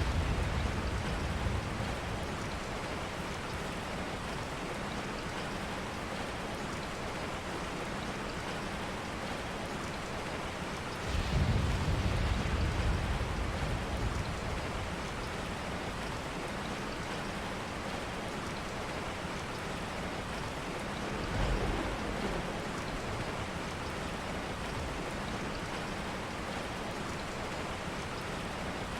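Steady rain ambience with low rumbles of distant thunder: one at the start, a longer swell lasting a few seconds about a third of the way in, and a short one about two-thirds of the way in.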